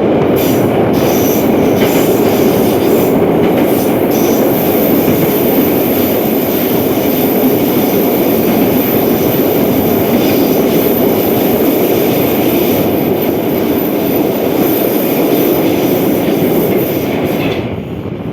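An 81-717/714 metro train running at speed between stations: a steady loud rumble of wheels on rail with a thin high whine above it. The noise drops off sharply near the end.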